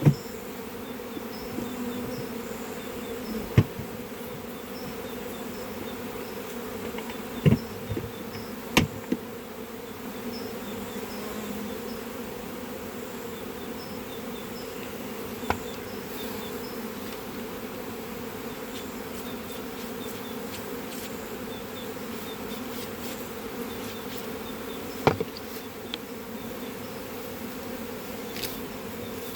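Honeybees buzzing in a steady drone, with a handful of sharp knocks scattered through.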